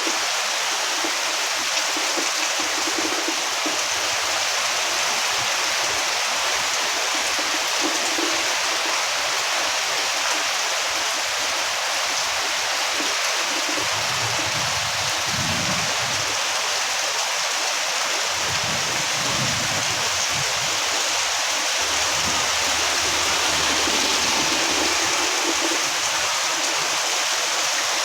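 Heavy rain pouring steadily, a dense even hiss, with a few low rumbles in the second half.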